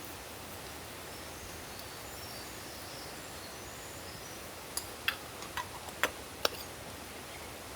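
Steady outdoor background hiss of the rainy forest and stream, with a few faint bird chirps. Near the end come about five light, sharp clicks and clinks within two seconds.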